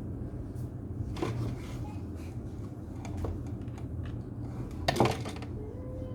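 A few sharp metallic clicks and light clatter, like small tools or parts being handled, with the loudest cluster about five seconds in, over a steady low hum.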